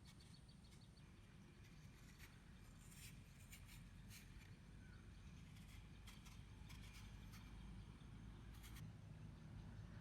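Near silence: quiet outdoor ambience with a low rumble and scattered faint clicks, with a few faint chirps among them.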